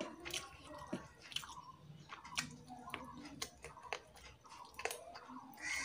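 Close-miked chewing and wet mouth smacking of someone eating rice and chicken curry by hand, with fingers squishing the rice in a steel plate. Sharp short clicks come about twice a second.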